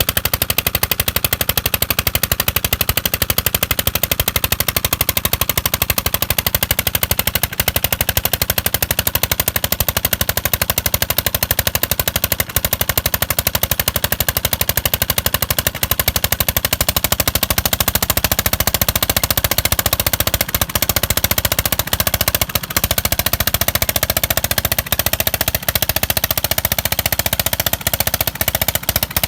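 Old diesel engine running a water pump, its exhaust firing in a fast, even train of sharp beats that holds steady throughout.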